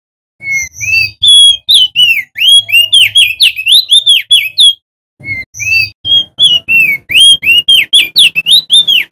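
Male opior jambul (crested heleia) singing in two loud phrases of rapid whistled notes, each note sliding up and down, with a short pause between the phrases.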